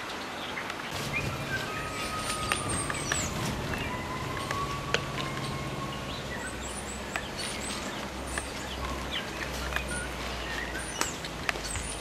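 Small birds chirping and twittering in short, scattered calls, with a few faint sharp clicks, over a steady low hum.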